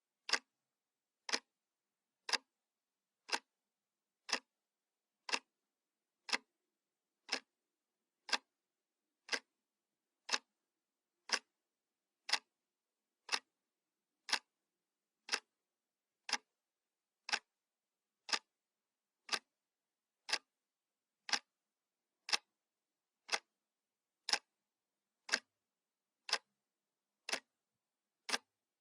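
Analog clock ticking steadily, one sharp tick each second with silence between ticks.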